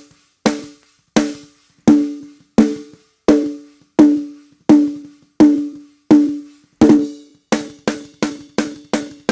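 Soloed, gated snare drum track playing back: single sharp hits with a short ringing tone that dies away, silence between them as the gate cuts the bleed. The hits come about every 0.7 s, then roughly twice as fast in the last two seconds.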